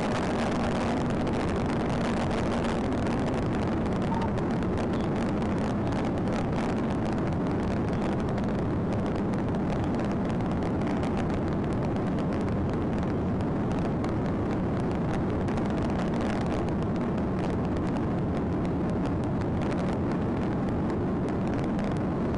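Steady drone of engine, tyre and wind noise from a patrol car being driven, with a faint steady hum underneath, picked up by its dash camera.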